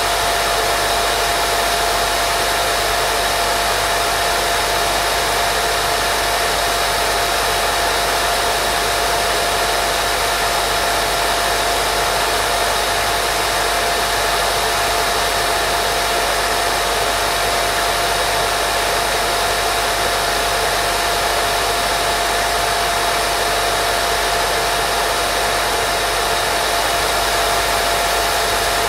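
Steady white noise played as a baby sleep sound: an even, unbroken hiss with a steady tone running through it.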